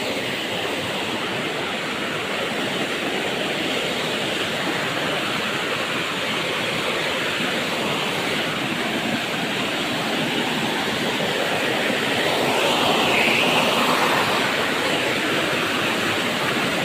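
Steady rushing of a waterfall, growing a little louder about three quarters of the way through.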